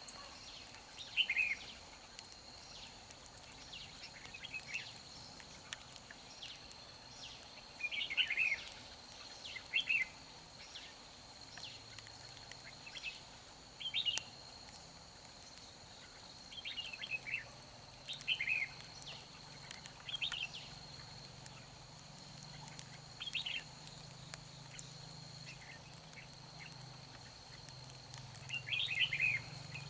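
Red-whiskered bulbuls singing short, quick, warbling phrases every two or three seconds, over a steady thin high-pitched whine.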